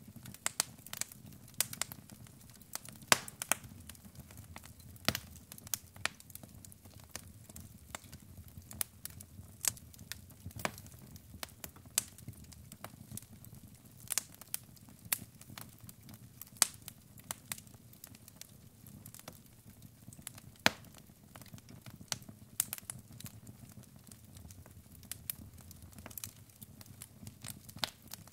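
Log fire burning in a fireplace: wood crackling with irregular sharp pops, some much louder than others, over a faint steady low rumble.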